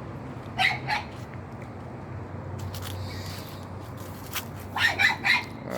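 Chickens clucking: one short call about half a second in and a quick run of short clucks near the end, over a steady low hum.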